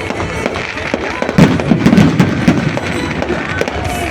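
Fireworks and firecrackers going off in quick, irregular cracks and pops, with people's voices underneath. The sound is loudest in the middle.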